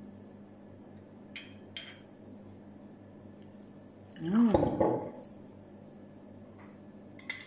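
Pineapple juice poured from a small cup onto raw chicken pieces in a glass bowl: a short splash and trickle about four seconds in, after a couple of light clicks from the bottle and cup.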